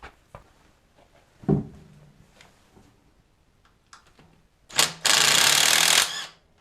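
Hand tools clicking and knocking against metal parts, then a power tool runs in one loud burst of about a second and stops.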